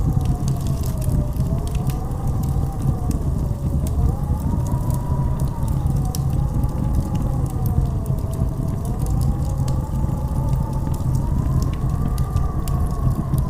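Blizzard wind howling in a steady low roar, with a whistling tone that slowly rises and falls, and faint scattered crackles throughout.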